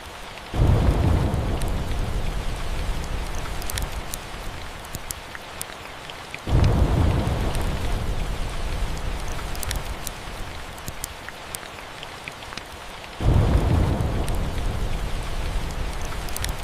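Steady rain with rolling thunder breaking in three times, each rumble starting abruptly and dying away over several seconds. Faint scattered crackles sound over the rain hiss.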